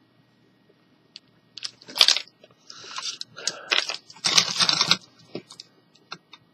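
Hands handling plastic parts and cables: a few sharp clicks and several rustling, crunchy bursts, loudest in the middle, as the stereo's leads are plugged together.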